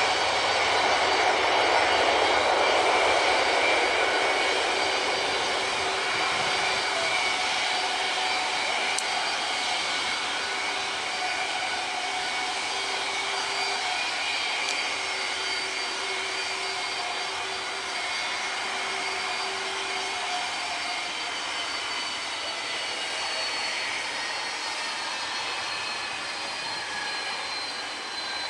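Jet airliner's engines running with a steady rush and several high whining tones. The sound is loudest a few seconds in, then slowly fades, and near the end the high whines slide down in pitch as the aircraft moves away.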